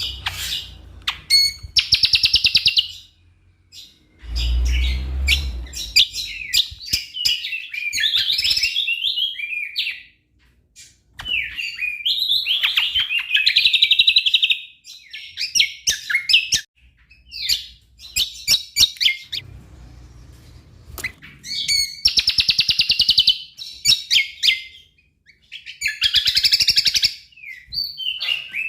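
Cucak kombo (kecial kombo) singing gacor: bursts of rapid chattering and trilling phrases, full of isian (phrases copied from other birds), with short pauses between them. A brief low rumble sounds about four seconds in.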